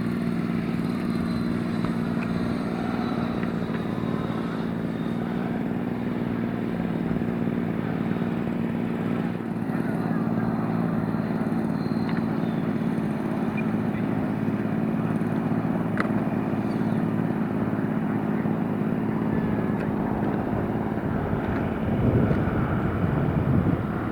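Twin 90mm electric ducted fans of a model Me 262 jet running steadily as it flies its landing circuit. The sound gets louder and rougher near the end.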